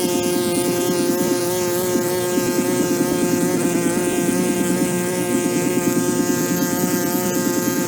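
A motor running steadily at one constant pitch, with a high drone.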